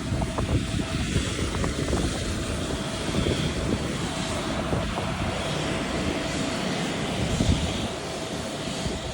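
Airbus A320neo's jet engines running: a steady low rumble with a faint steady tone over it.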